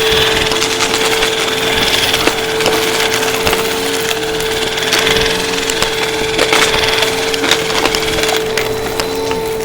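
Vacuum cleaner running with a steady motor whine over rushing airflow, crackling and clicking continually as it sucks up crunchy debris.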